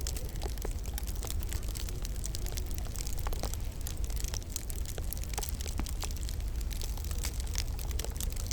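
Wood fire crackling in a fireplace: irregular sharp pops and snaps over a steady low rumble and hiss of the flames.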